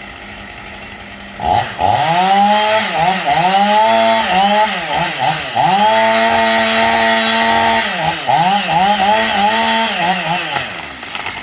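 Two-stroke chainsaw revved hard in quick throttle blips, a few times held briefly at full revs, starting about a second and a half in and dying away near the end.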